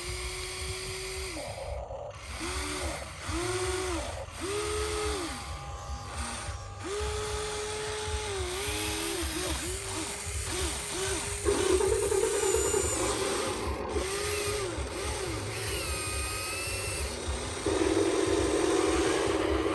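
Electric gear motors of remote-controlled toy construction vehicles whining in short bursts, each rising in pitch as the motor spins up and falling as it stops. Sometimes several come in quick succession. Louder, heavier whines come about twelve seconds in and again near the end.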